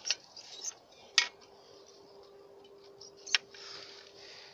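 Handling noise: two sharp clicks or snaps, about a second in and again past three seconds, with faint rustling between them and a faint steady hum that sets in at the first click.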